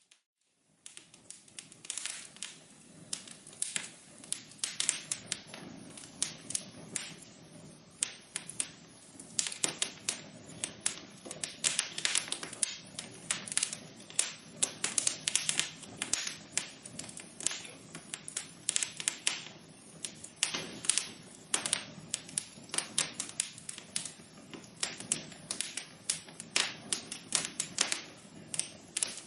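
Wood fire crackling in a fireplace: many irregular sharp pops and snaps over a low steady hiss, after a brief silent gap at the very start.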